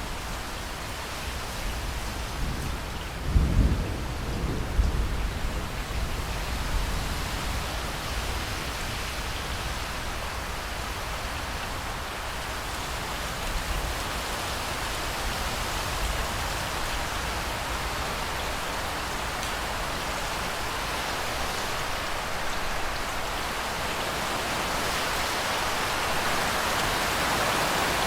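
Steady rain in a thunderstorm, with a low roll of thunder about three to five seconds in; the rain hiss grows louder near the end.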